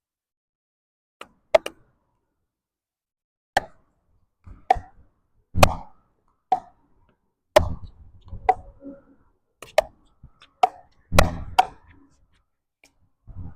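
A ball being hit back and forth in a racket-sport rally: about a dozen sharp, irregular pops from paddle or racket strikes and ball bounces, roughly one a second.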